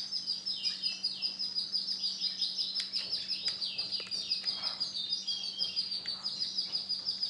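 Male domestic canary singing a long unbroken song of rapid, high repeated trills and chirps, with a faint steady hum under it.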